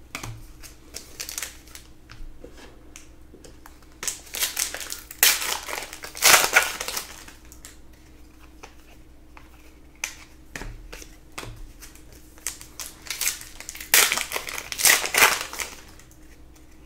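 Foil trading-card pack wrappers being handled and torn open, with cards shuffled by hand: irregular crackling handling noise in two longer spells, about four seconds in and again about fourteen seconds in, with light scattered clicks between.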